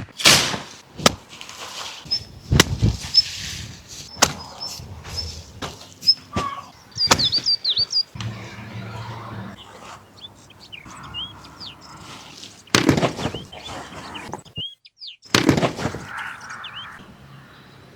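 Small birds chirping and whistling in short, scattered calls, with several sharp knocks and thuds in between that stand out as the loudest sounds.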